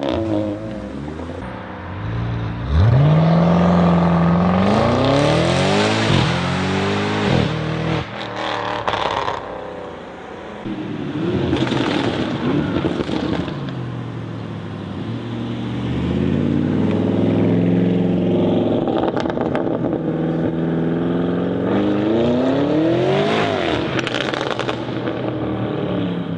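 Audi car engines revving and accelerating hard in a series of separate clips. The pitch climbs repeatedly and drops back, as at gear changes.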